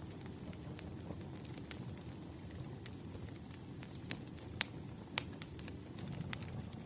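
Burning firewood crackling: irregular sharp snaps and pops over a steady low rumble of the flames, with the two loudest snaps about four and a half and five seconds in.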